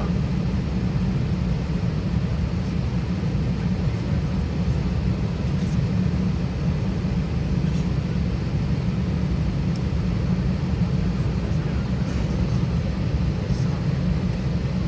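Steady cabin noise inside an Airbus A320 with its IAE V2500 engines running: an even low rumble that holds at one level throughout, with a few faint ticks.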